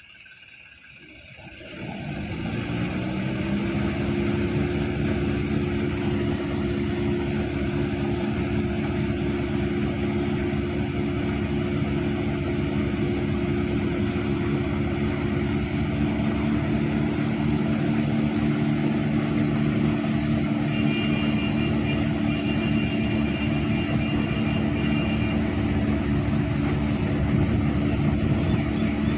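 Combine harvester's diesel engine coming in about two seconds in, rising a little in pitch as it comes up to speed, then running steadily at working revs.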